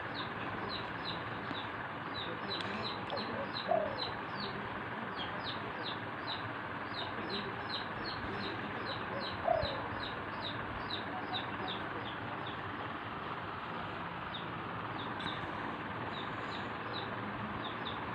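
Birds calling: a rapid run of short, high, falling chirps, about three a second, thinning out after some thirteen seconds. Two louder, lower single calls come about four and nine and a half seconds in.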